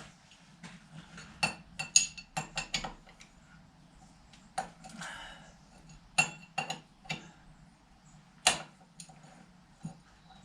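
Metal tools being handled on a workbench: irregular sharp clinks and knocks of steel on steel, about a dozen in all, the loudest about two seconds in and again near eight and a half seconds in.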